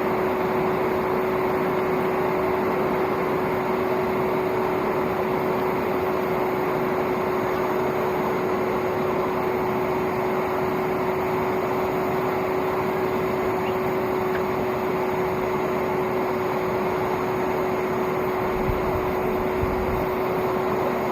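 Old vacuum cleaner motor running steadily as the blower of a home-made coal forge, a constant hum with one held tone over rushing air.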